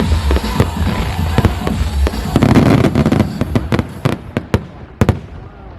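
Fireworks going off in a rapid string of sharp cracks and bangs, with a dense crackling burst about two and a half seconds in and a few single loud bangs near the end as it thins out.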